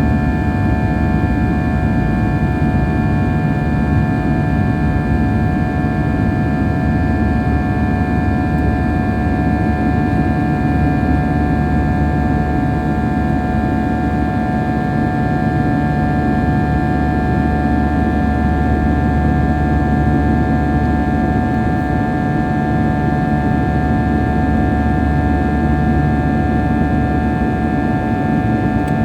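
Steady cabin noise inside a Boeing 737-800 in flight: the low rush of airflow and its CFM56 engines, with several steady high tones held over it.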